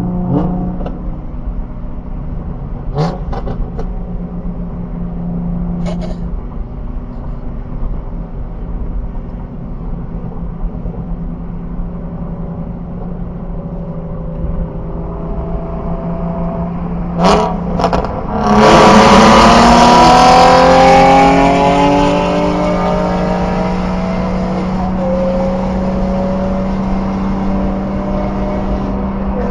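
Infiniti G37's VQ V6 exhaust, with Motordyne art pipes and a Tomei cat-back, running at a steady cruise, then rising in pitch and getting much louder under hard acceleration about two-thirds of the way through before settling back to a steady drone. A few short sharp clicks come before the pull.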